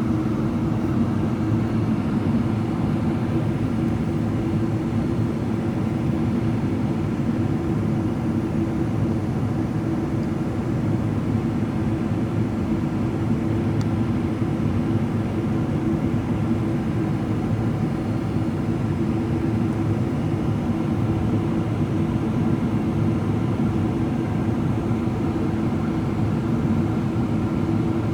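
Steady cabin noise inside a Boeing 777-300ER on descent: rushing airflow and the low drone of its GE90 engines, an even hum that does not change.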